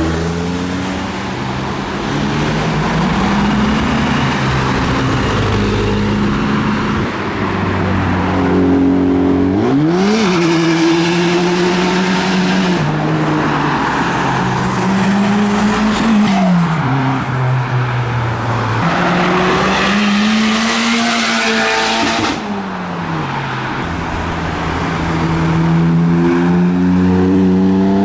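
Modified cars accelerating hard one after another, their engines revving up in steps and dropping back with each gear change. A sharp rev rise comes about ten seconds in.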